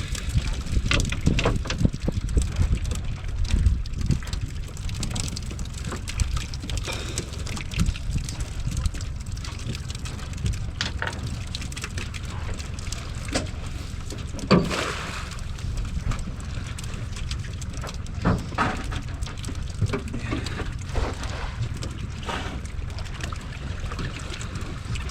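Wind rumbling on the microphone aboard a small boat, with scattered knocks and splashes; one louder knock or splash about halfway through.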